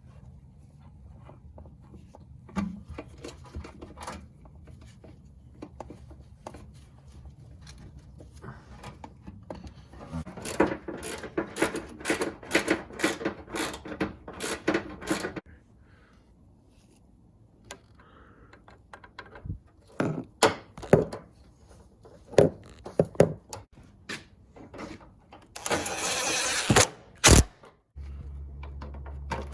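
Hand tools and metal car-body parts clicking, clinking and knocking as they are handled, with a fast run of clicks about ten seconds in and another cluster past the middle. Near the end comes a short, loud rushing noise, then a sharp click.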